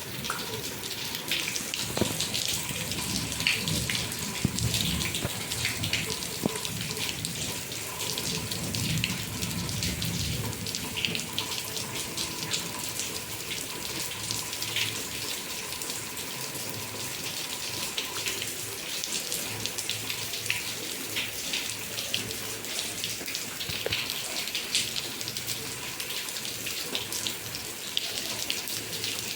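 Heavy rain pouring and splashing steadily, with many close drips and splats. A low rumble runs under it for the first ten seconds or so.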